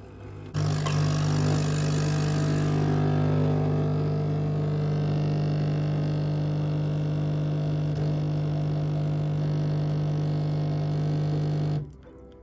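An electric motor, like that of a household appliance, switched on and running with a steady hum for about eleven seconds, then switched off abruptly.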